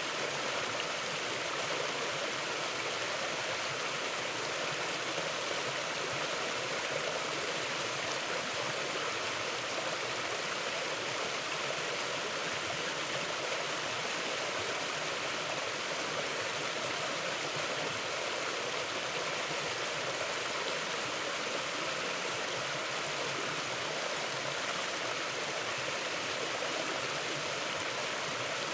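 Mountain river flowing steadily: a continuous, even rush of water with no change over the whole stretch.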